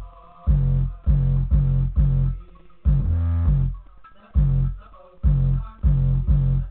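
Music with bass guitar and guitar playing through a car's factory 4x6-inch speakers, driven by a Pioneer DEH-P5950IB head unit. Strong bass notes land on a steady beat.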